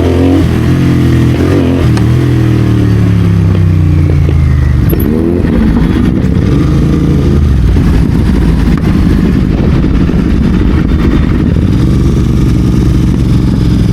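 Royal Enfield Continental GT650's parallel-twin engine running through an aftermarket Red Rooster exhaust while riding. The engine note falls over the first five seconds or so, then runs rougher and holds steady.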